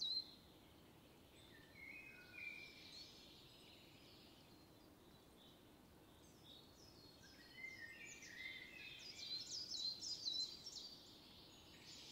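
Small birds singing in woodland: quick, high, falling notes repeated in runs, thickest from about eight to eleven seconds in, with a few lower phrases around two and eight seconds, over a faint background hiss.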